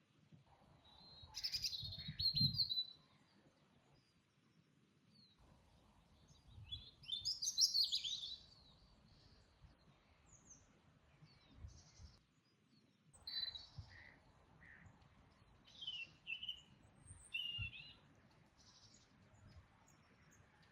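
Small songbirds chirping and singing in short, quick phrases that come in three bouts with pauses between, over a faint low rumble.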